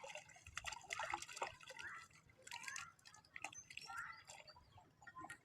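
A small bird chirping in short, quick calls, some of them sliding up in pitch, mixed with faint clicks.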